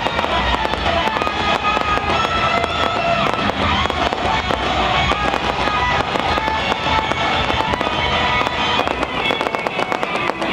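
Fireworks going off in quick succession, many sharp pops and crackles, over loud music.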